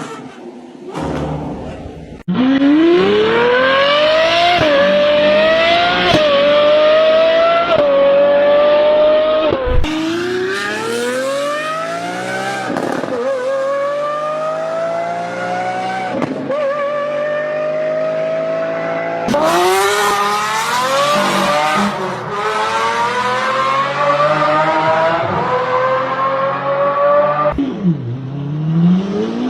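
V12 car engine accelerating hard, its note climbing in pitch and dropping back at each gear change, several times over.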